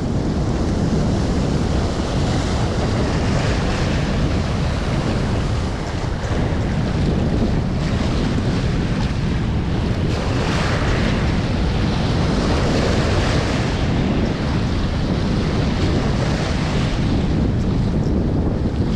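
Strong wind buffeting the microphone: a steady rushing rumble that runs without a break.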